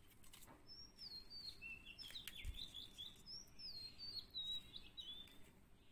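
A songbird singing faintly: a run of quick whistled notes sliding up and down in pitch, in two phrases, the second starting about halfway through.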